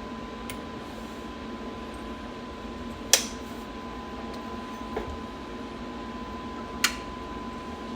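A few sharp clicks and taps of small carburettor parts and tools being handled while a spring is taken out, the loudest about three seconds in and another near the seven-second mark, over a steady background hum.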